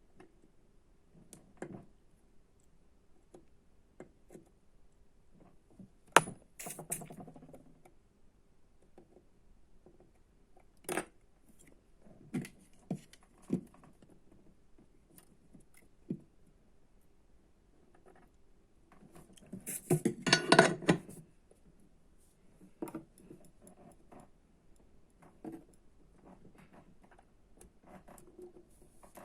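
Small metal tools and electronic parts being handled on a workbench: scattered clicks and light clinks, with a brief clattering rattle about twenty seconds in.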